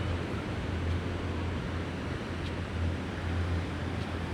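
Seaside ambience: a steady hiss of surf with a fluctuating low rumble of wind on the microphone.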